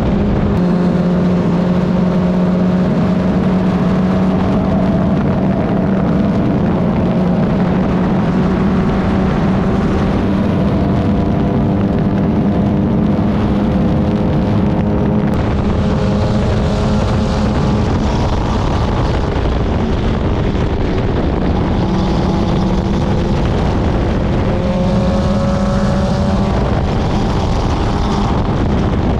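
Club Ford race car's engine running hard at racing speed, its pitch climbing and dropping through gear changes and corners, with a long rising sweep near the end, over a steady rush of wind and road noise.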